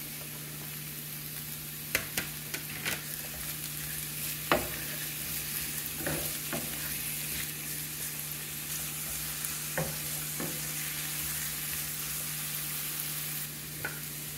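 Chopped red onion, garlic and jalapeño frying in oil in a skillet, a steady sizzle, with a spatula stirring and knocking against the pan a handful of times. A steady low hum runs underneath.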